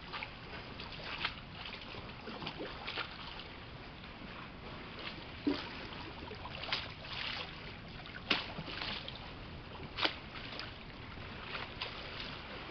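Small waves lapping and splashing on open water under a steady wash of wind noise, with sharp slaps every second or two.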